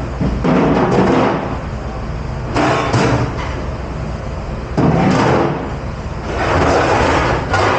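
Dish-pit work in a commercial kitchen: repeated knocks and bangs with rough surges of noise, from dishes, racks or a dish machine door being handled, over a steady low hum.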